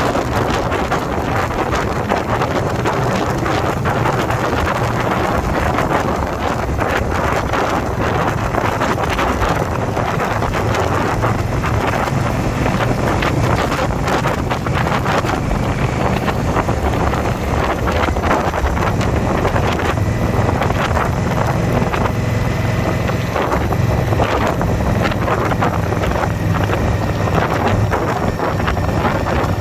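Motorcycle V-twin engine running steadily at cruising speed, with heavy wind rushing over the microphone.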